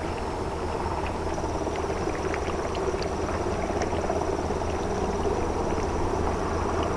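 Small naval vessel's engine running steadily as it comes into port, a continuous low hum with a faint thin high tone above it.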